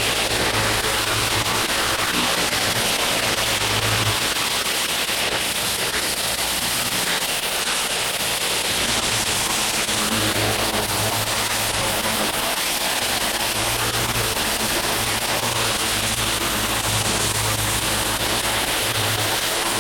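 Pressure washer spraying water onto paver stones: a steady hiss, with a low engine hum underneath that comes and goes.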